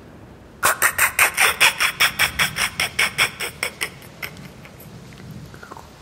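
A man laughing hard: a quick run of loud 'ha-ha' bursts, about six a second, that sets in suddenly and trails off after about three seconds.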